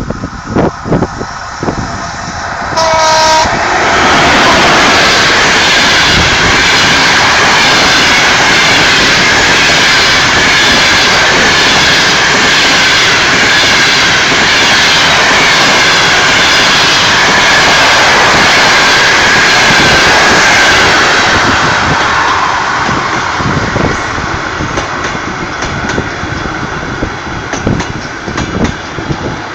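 A locomotive-hauled passenger train passes close by. A short horn blast about three seconds in is followed by the loud, steady rush of the locomotive and coaches going past. In the last third the noise fades to the clickety-clack of wheels over rail joints.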